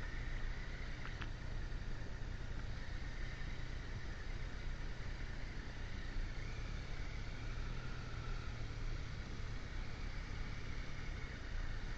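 Motorcycle cruising at a steady speed: an even engine hum under a broad rush of wind and road noise.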